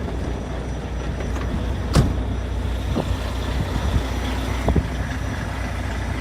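Semi truck's engine idling: a steady low rumble, with a few sharp clicks over it.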